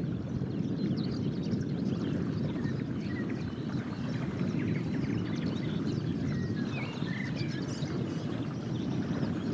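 A chorus of many small birds, with short high calls and chirps overlapping, over a steady low rumble.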